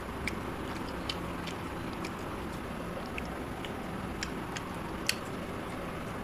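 Close-up eating sounds: chewing with scattered small wet mouth clicks and smacks, about one a second, over a steady background hiss.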